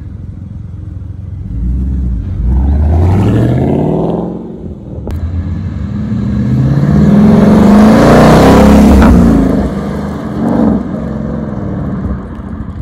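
Ford Mustang engine pulling away and accelerating: the note rises, dips briefly about four seconds in, then climbs again to its loudest before dropping back to a steady lower running note.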